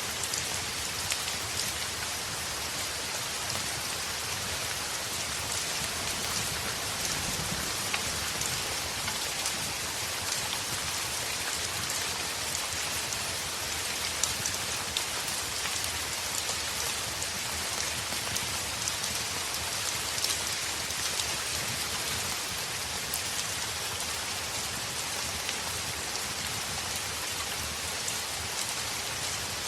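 Steady heavy rain on a window, with a fireplace crackling in scattered sharp pops.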